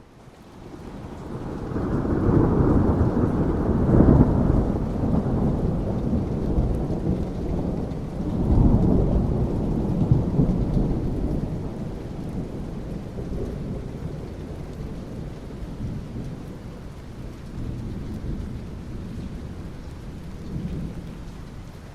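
Rolling thunder over steady rain: a long low rumble swells up over the first couple of seconds and peaks about four seconds in. A second peal starts about eight and a half seconds in, then fades slowly away, leaving the rain.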